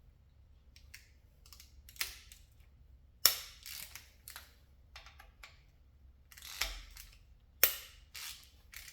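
Irregular metallic clicks and clanks from hand tools and loose bolts during work on the engine's intake bolts. The two loudest clanks come about three and seven and a half seconds in.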